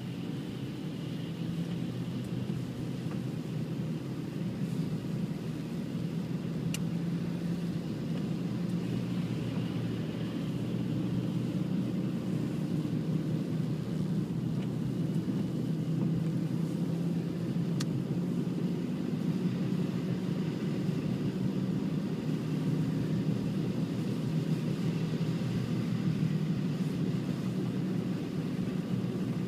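Steady low rumble with a faint hum, holding level throughout, with two faint brief clicks.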